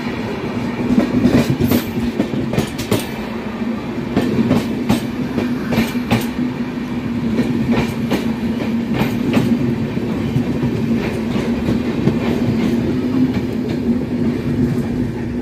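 Indian express passenger train rolling past, its wheels clicking over rail joints about once or twice a second over a steady low hum.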